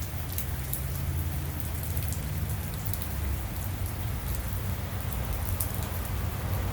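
Steady rain falling, with scattered sharp ticks of drops striking close by and a steady low rumble underneath.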